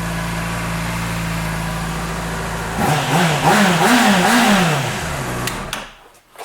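Honda CBR600RR inline-four engine idling steadily. About three seconds in it is blipped through a few quick revs that rise and fall, then it settles and shuts off near the end.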